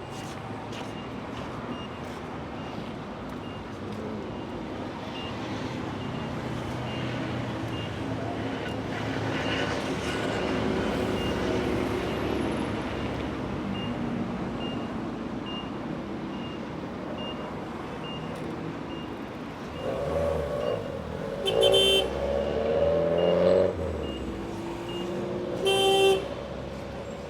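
Busy city street traffic: a steady rumble of passing cars, with a short high beep repeating about once a second. Car horns honk several times in the last third, one long blast and short toots, the loudest sounds.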